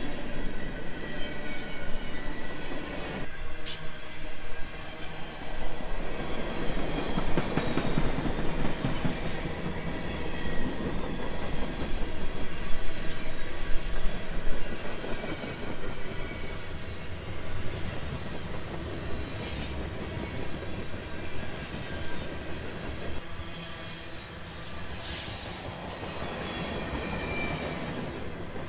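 Freight train cars rolling past on the rails: a steady rumble of wheels on track, with a few brief high-pitched wheel squeals, the longest cluster near the end.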